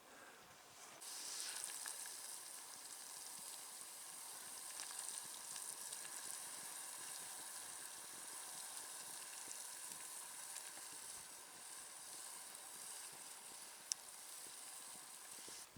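A steady hiss with faint crackling that swells about a second in, with one sharp click near the end.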